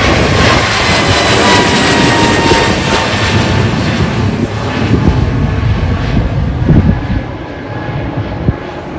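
Jet airliner taking off, its engines running at takeoff thrust with a loud roar. The fan whine falls slowly in pitch and the sound fades over the last few seconds as the aircraft moves away.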